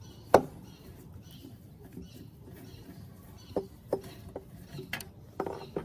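Scattered sharp clicks and knocks of hand tools and parts being handled: one loud knock about a third of a second in, then a run of lighter clicks and knocks near the end.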